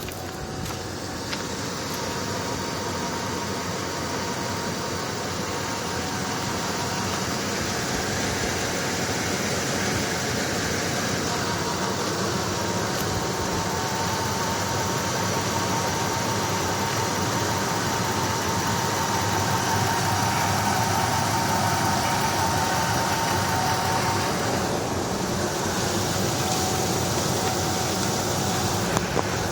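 2000 Ford Econoline E150 V8 idling with a rough shake, with a thin steady whine over the engine noise. The roughness is a misfire on cylinder #7 from a failed coil-on-plug ignition coil, which sets no check-engine code.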